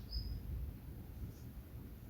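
A wild bird gives a short high chirp just after the start and a faint second note partway through, over a steady low rumble.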